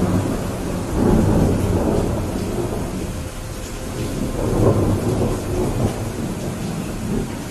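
Steady rain with rolling thunder. Deep rumbles swell at the start, again about a second in, and once more just past the middle, over the constant hiss of the rain.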